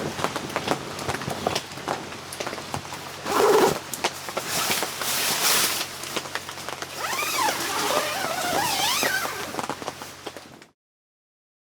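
Steady rain with many drops ticking, and a wavering call that rises and falls several times from about seven seconds in. The sound cuts off abruptly near the end.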